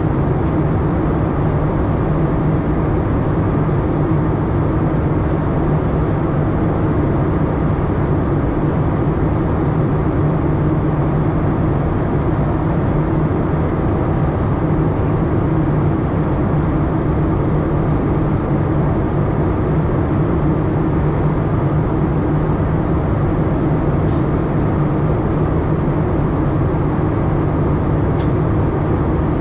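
Steady cabin noise inside a Boeing 787-8 airliner, with an even low hum and rush of air and engine noise that does not change. A few faint ticks are heard.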